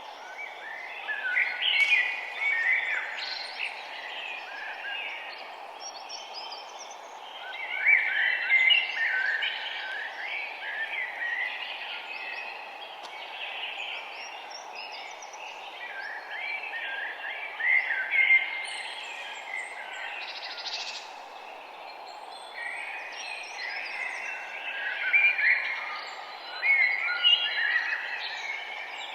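Songbirds singing in bouts of quick, warbling phrases, with pauses between the bouts. Underneath runs a steady, even outdoor hiss.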